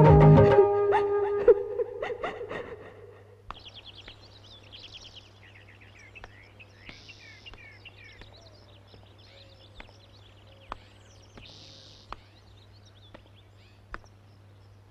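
A song ends in the first second or so and dies away. Then birds chirp in repeated short runs, over a faint steady hum with a few scattered clicks.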